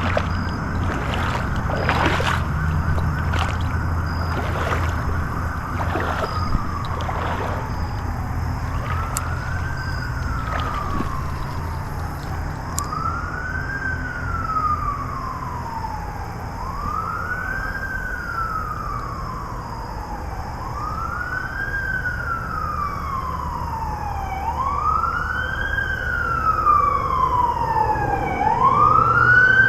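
An emergency vehicle's siren wailing, rising and falling slowly about once every four seconds. It comes in about six seconds in and grows louder toward the end as it draws nearer.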